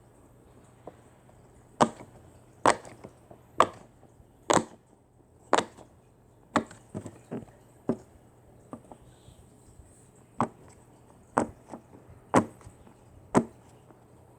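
A series of sharp knocks or chops, about one a second and sometimes two in quick succession.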